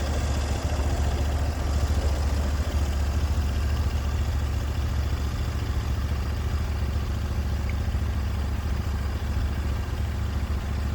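Sawmill engine running steadily at an even speed, a constant low hum with no change in pitch.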